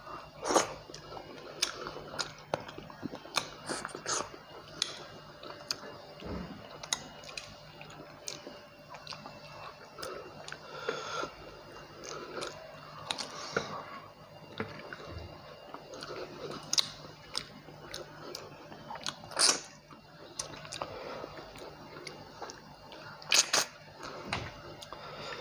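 A person chewing and smacking while eating rice and fried rohu fish curry with their hand, close to the microphone. Irregular wet mouth clicks and occasional crunches run throughout, with a few louder smacks about half a second in, near the middle and near the end.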